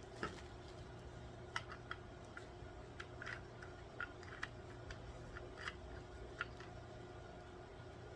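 Light, irregular clicks and taps, about a dozen spread over several seconds, from the mineral spirits container and its packaging being handled.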